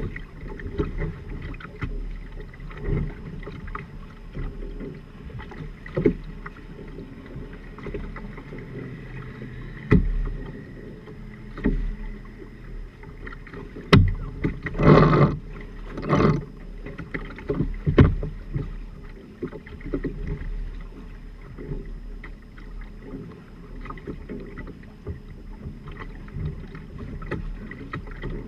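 A sailing trimaran under way: steady wash of water and wind, with scattered knocks and slaps and two short, louder rushes about halfway through.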